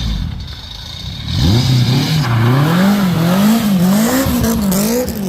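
Turbocharged Honda K20 four-cylinder in a Civic revved repeatedly, its pitch climbing about a second in and then rising and falling over and over as the throttle is blipped, after a rushing noise.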